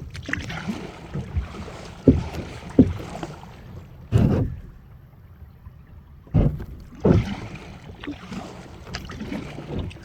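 Kayak paddling: the paddle dipping and splashing in the river, with irregular short knocks and splashes a second or so apart.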